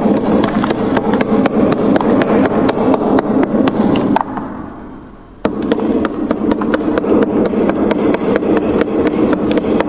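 Freezer frost crunching in rapid, rough strokes, with a break of about a second near the middle.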